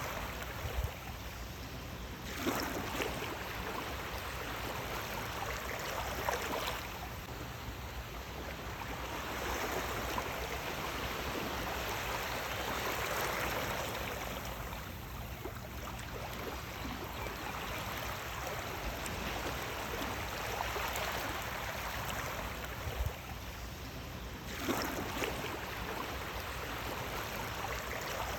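Sea waves washing onto a shore: a continuous rush of water that swells as a wave breaks every few seconds.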